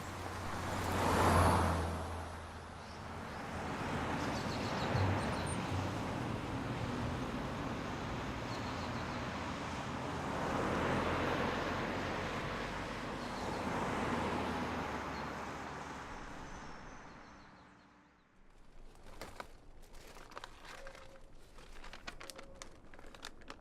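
Road traffic passing, each vehicle a rush of noise over a low hum that swells and fades, the first pass the loudest. Near the end the traffic fades out and only faint scattered clicks and rustles remain.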